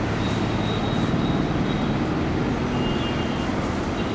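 Indian Railways passenger train's coaches rolling along the track as the last coach pulls away, a steady low rumble with faint thin high-pitched tones now and then.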